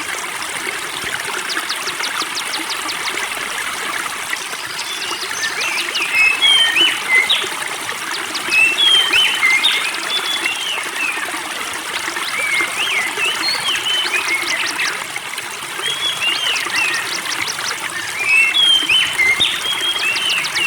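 Spring water trickling steadily. From about six seconds in, a songbird sings repeated short bursts of quick chirps, with fast rattling trills at times.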